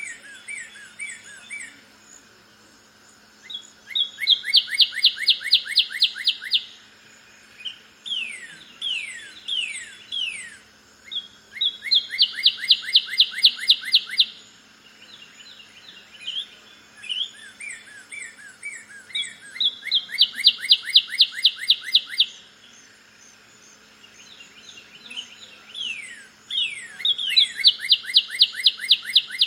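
Northern cardinal singing. Each phrase is a few loud whistles sliding downward, then a fast run of about eight to ten repeated notes a second, and the phrase comes round about every eight seconds. Fainter high-pitched twittering sounds in between.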